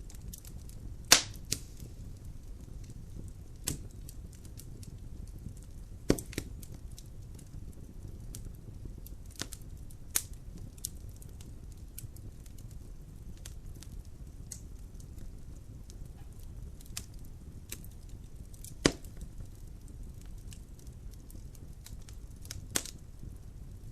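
Logs burning in a fireplace: sharp, irregular cracks and pops every second or few, the loudest about a second in, then near six and nineteen seconds, over a steady low rumble of the fire.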